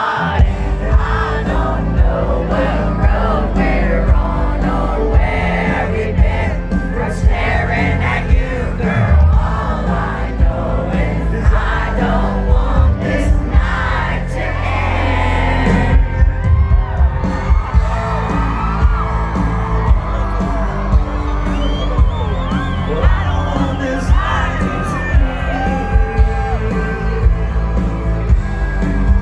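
Live country concert: a band playing with a voice singing over it, and the crowd whooping and yelling.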